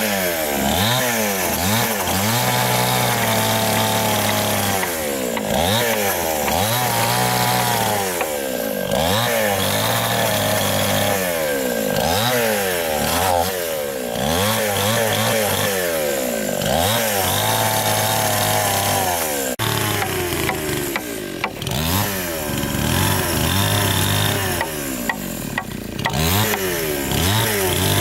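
Chainsaw cutting into wood, its engine pitch repeatedly sagging under load and climbing again every second or two.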